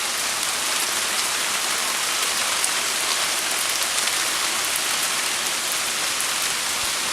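Heavy rain pouring down, a steady dense hiss of drops hitting the ground, with faint scattered taps of individual drops.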